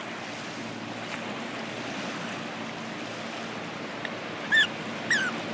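Steady wash of river water and wind with the faint drone of a passing motorboat. Near the end come two short, high, falling chirps.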